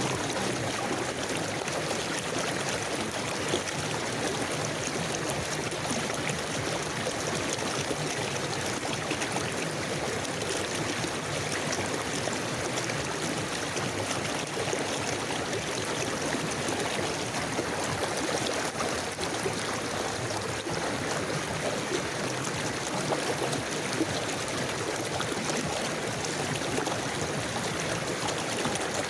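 River water flowing steadily over stones, a continuous rushing and babbling.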